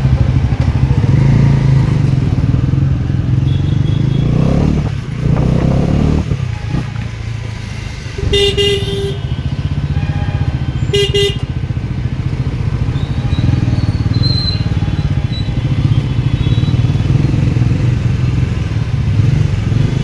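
Bajaj Pulsar motorcycle engine running on the move, a steady low drone whose note drops and picks up again about five seconds in. A vehicle horn honks twice, about eight and eleven seconds in.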